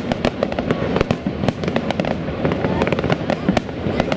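Fireworks crackling: a dense, irregular run of sharp pops and cracks several times a second, with voices underneath.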